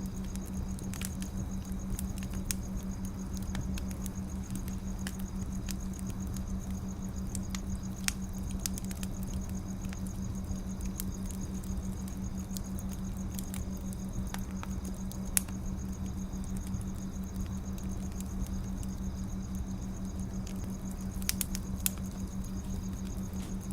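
Firewood burning, crackling with scattered sharp pops over a steady low hum; the sharpest pop comes about fifteen seconds in.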